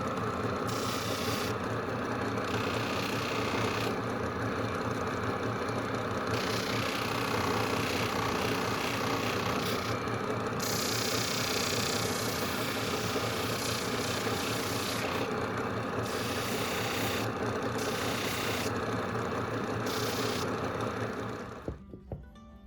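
A motor-driven tool runs steadily, with a hiss that cuts in and out several times as it works on the metal. It stops about a second before the end.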